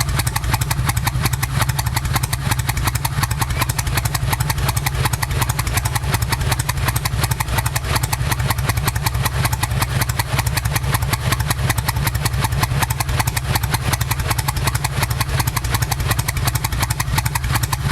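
Kawasaki Vulcan 1500 Nomad's V-twin engine idling steadily through aftermarket Cobra and Vance & Hines exhaust pipes, a rapid even pulse with no revving.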